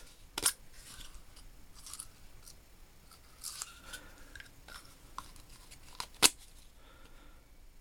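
Small machining tools and their packaging being handled in a toolbox drawer: a few sharp clicks with faint rustling between them, the loudest click about six seconds in.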